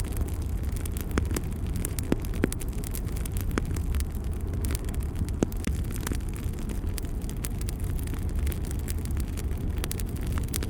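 Fire burning in a fireplace: a steady low rumble of flames with frequent sharp crackles and pops scattered throughout.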